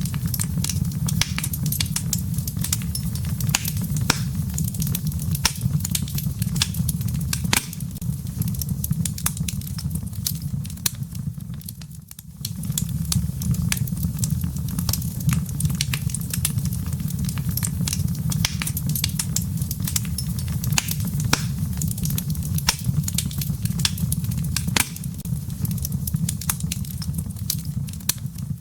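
Wood logs burning in a fireplace: a steady low rumble of flames with frequent sharp crackles and pops. The sound dips briefly about twelve seconds in.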